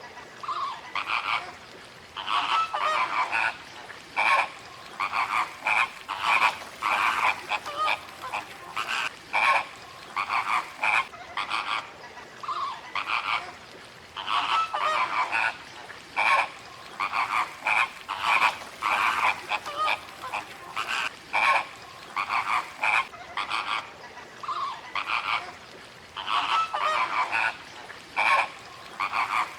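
Animal calls: a dense run of short, loud, repeated calls, several a second.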